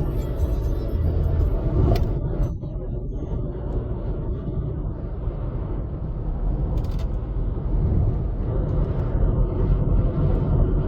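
Steady low road rumble of a car driving on a highway, heard from inside the moving vehicle, with a short knock about two seconds in.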